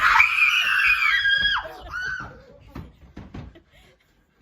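A shrill, frightened scream held for about a second and a half, a shorter cry just after, then a quick run of knocks and thumps.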